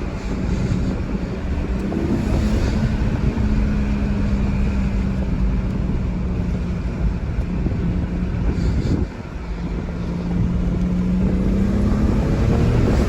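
BMW 335xi's N54 twin-turbo 3-litre inline-six, breathing through an Injen cold air intake with the stock exhaust, running under way at a steady engine note. The note dips about nine seconds in, then climbs steadily again toward the end.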